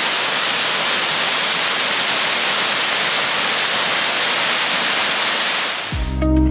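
Steady rush of a waterfall, its falling water making an even hiss and roar. Music comes in near the end.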